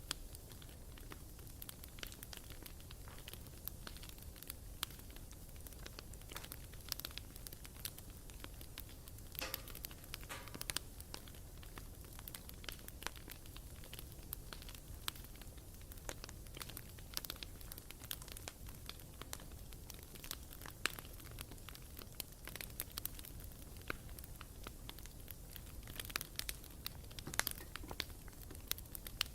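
Bonfire burning, with irregular sharp crackles and pops from the wood over a low steady rumble of the flames. A short hissing sputter comes about ten seconds in.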